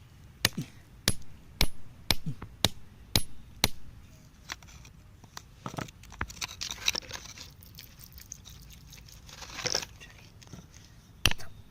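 Hand tool striking rock in a run of sharp strikes, about two a second, then scraping and crunching of loose rock, with more strikes near the end.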